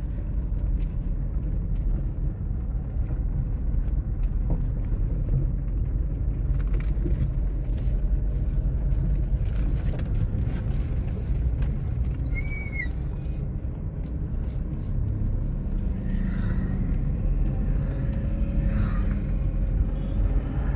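Inside a Tata Tiago's cabin on a rough road: a steady low rumble of engine and road, with scattered small clicks and knocks of interior rattling, which the owner blames on the doors having been slammed hard. A brief high chirp comes about halfway through.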